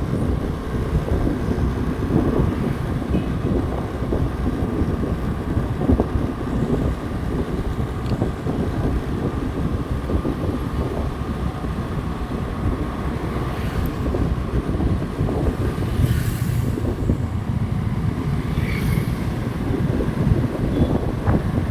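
Motorcycle running steadily while riding on the road, with wind buffeting the microphone.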